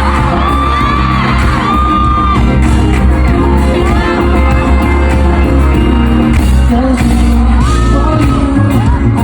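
Live K-pop performance heard loud from the crowd: a pop track with heavy bass and singing over it, with high whoops and screams from the audience.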